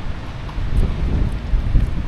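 Wind buffeting a smartphone's microphone in low, uneven rumbling gusts, strongest about a second in and again near the end.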